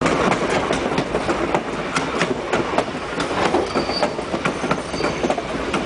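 Railroad passenger car rolling along the track, its wheels rumbling steadily and clicking and knocking several times a second on the rails.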